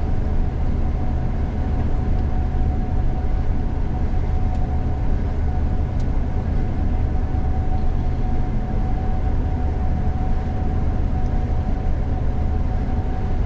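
Gleaner combine harvester running steadily while harvesting soybeans, heard from inside the cab: a constant low drone with a thin, steady whine above it.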